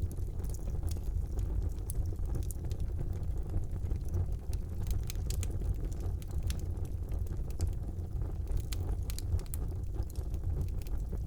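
Fire burning in a fireplace: a steady low rumble of the flames with frequent scattered crackles and small pops of burning wood.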